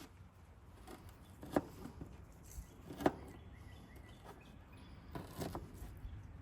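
A few sharp knocks, the two loudest about a second and a half apart, with softer ones near the end, over a faint steady outdoor background.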